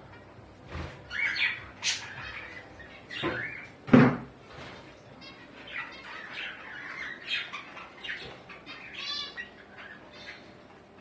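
Birds chirping and squawking in many short, overlapping calls, with one louder, deeper call about four seconds in.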